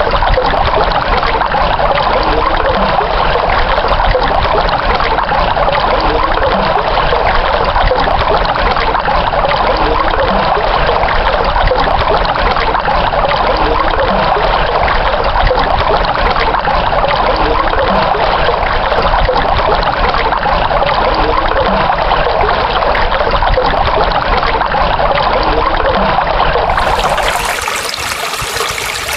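Running water flowing and trickling steadily, like a small stream. Near the end it turns a little quieter and brighter.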